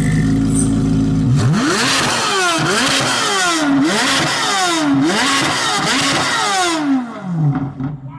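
Chevrolet C8 Corvette Z06's flat-plane-crank V8 with a new aftermarket exhaust, running steadily, then revved hard several times in quick succession with the pitch climbing and dropping, before it winds down near the end.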